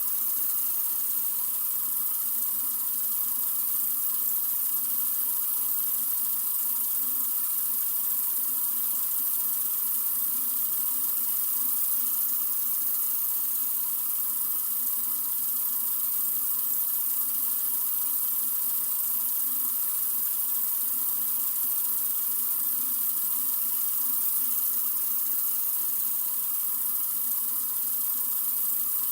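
Tap water running from a sink faucet in a continuous, even stream, a steady hiss with no breaks or changes.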